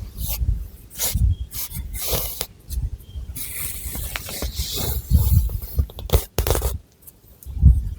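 Long fingernails scratching and rubbing through thick hair on the scalp, close to the microphone, in irregular strokes mixed with sharp little clicks and dull low bumps.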